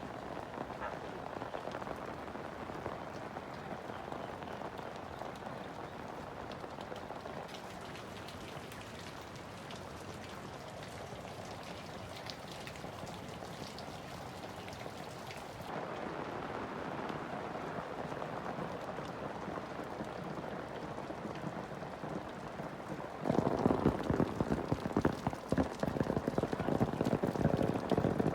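Rain falling steadily as an even hiss of many drops, shifting in character a few times. From about 23 seconds in it grows louder, with a dense, close patter of drops striking a surface.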